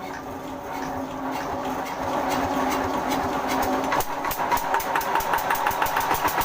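Small stationary diesel engine running, getting louder over the first few seconds, with a regular knocking beat of about six strokes a second from about four seconds in. This is the abnormal running sound that the owner sets out to cure by adjusting the fuel pump rack.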